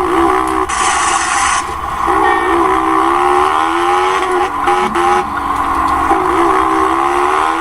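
Honda CG 150 Fan motorcycle's single-cylinder engine running loud through an open exhaust pipe while riding, its pitch rising and falling with the throttle. A short burst of hiss comes about a second in.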